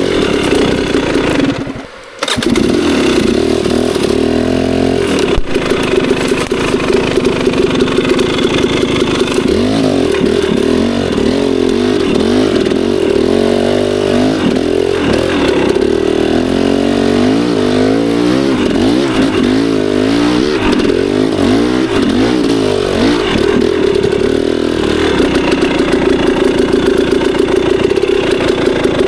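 Two-stroke dirt bike engine running hard on the trail. It cuts out briefly about two seconds in, then comes back and revs up and down over and over as the throttle is worked.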